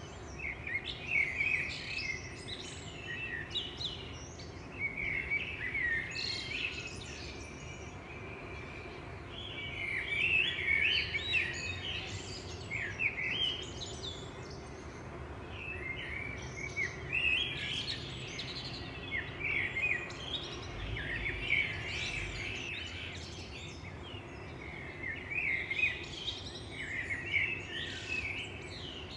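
Songbirds singing: phrases of rapid high chirping notes a few seconds long, repeating with short pauses, over a steady low background noise.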